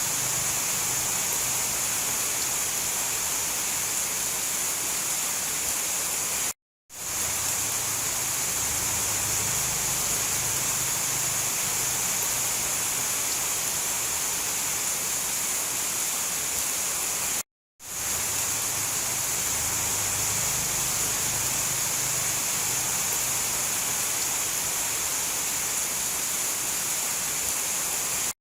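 Steady rainforest rain: an even, hissing wash with a bright high edge. It cuts out to silence twice for a moment, then swells straight back, the seams of a looped recording.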